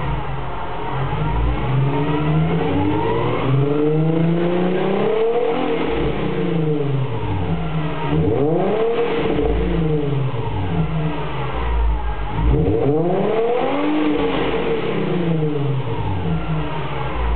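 Nissan 350Z Nismo's 3.5-litre V6 exhaust, with the stock high-flow catalytic converters still fitted, revved repeatedly while stationary: the pitch rises and falls several times, with two quicker, sharper blips about halfway through and near three-quarters of the way.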